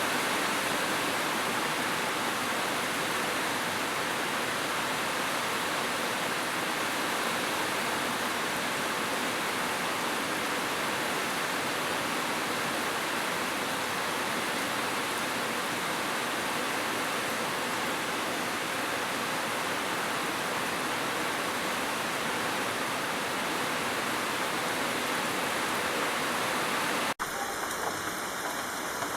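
Steady, dense hiss of heavy rain. About 27 s in it cuts abruptly to a different rain recording, with a few separate drop hits standing out.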